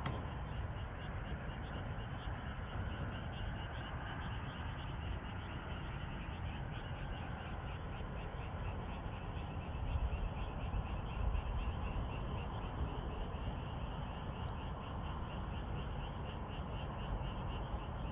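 A frog chorus: a steady run of rapid, evenly repeated croaking calls over a low, steady rumble.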